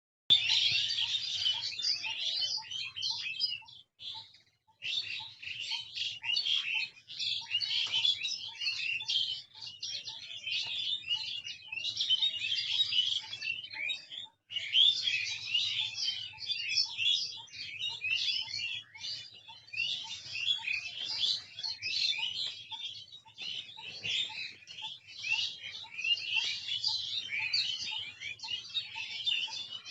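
A dense chorus of many small birds chirping and twittering over one another, high-pitched and continuous. It cuts out briefly about four seconds in and again about halfway. Underneath runs a faint, regular pip about twice a second.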